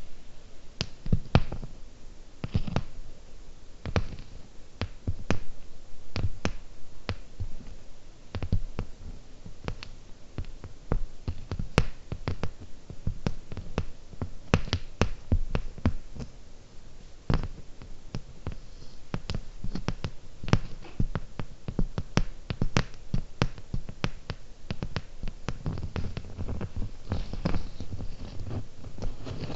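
Fingernails tapping on small hard objects right at the microphone, in an irregular stream of crisp taps a few a second, some with a low thud. The tapping grows denser and softer near the end.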